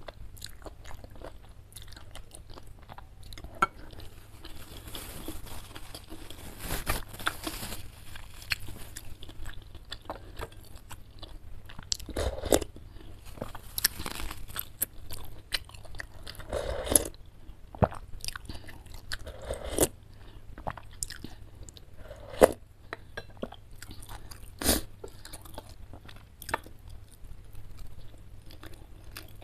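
Close-miked chewing of a mouthful of spicy chicken noodles with chicken meatballs: wet mouth smacks and small crunches, with irregular sharper clicks.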